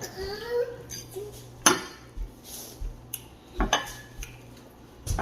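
Cutlery clinking against a plate in a few sharp, separate strikes, the loudest about a second and a half in.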